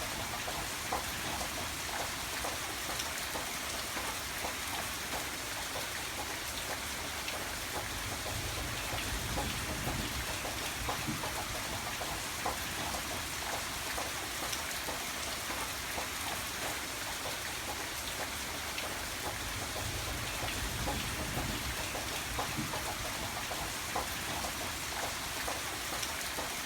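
Steady rain falling, with many separate drops ticking sharply on a surface over an even hiss.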